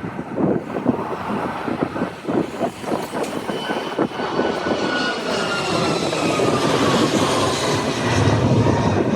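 Jet airliner flying past, its engine whine gliding slowly down in pitch from about four seconds in as the jet noise swells, with low rumble growing near the end. Gusting wind buffets the microphone at the start.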